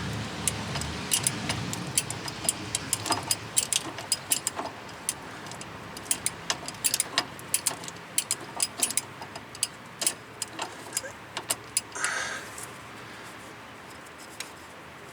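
Wrench clicking and clinking against a steel brake-line fitting as it is worked tight, in irregular metal ticks several a second, then a brief scrape near the end.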